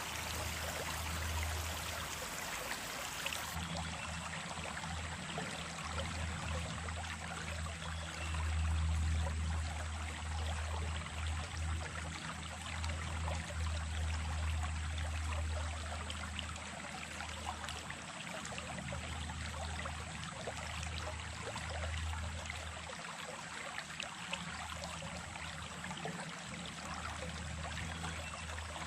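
Running water of a small stream flowing steadily, with a low rumble under it that swells and fades.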